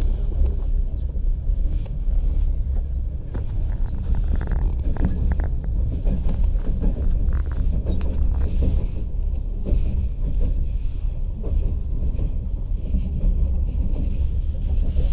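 Passenger train carriage running along the track: a steady low rumble of the wheels on the rails, with faint clicks scattered through it.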